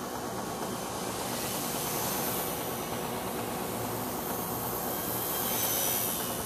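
Blade mCP X BL micro RC helicopter in flight: steady whine of its brushless motor and buzz of the spinning rotors, swelling a little louder twice.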